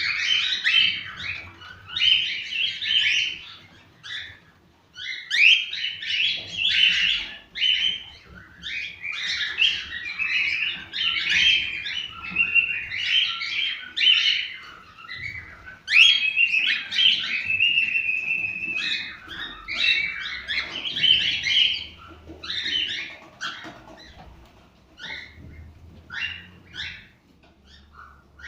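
Cockatiels chirping and warbling in dense, overlapping calls that thin out to scattered short chirps near the end.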